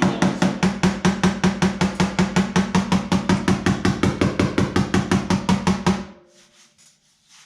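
Body hammer tapping a dented steel body panel in a rapid, even rhythm of about six light strikes a second, the sheet metal ringing with each blow as the dent is worked out. The hammering stops about six seconds in, followed by a few faint taps.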